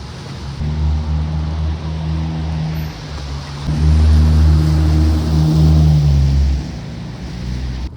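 A large engine or motor running close by: a low, steady hum over a rushing hiss, growing louder in the middle before fading back and cutting off suddenly near the end.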